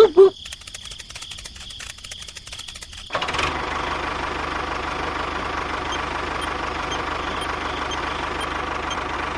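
Rapid ticking for about three seconds, then a small motor running steadily with a low hum.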